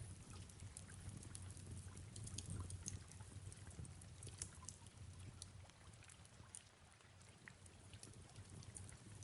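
Faint fireplace crackling: scattered irregular sharp pops and ticks over a soft steady low rumble, with gentle rain in the background.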